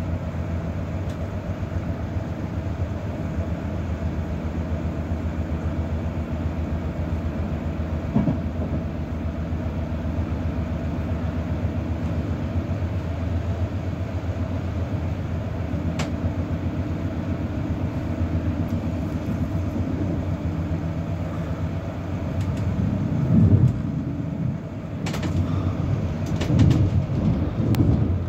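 Inside a passenger coach of a train running through a station at speed: a steady low rumble of wheels on rail, with a few sharp clicks. Louder clattering comes twice near the end.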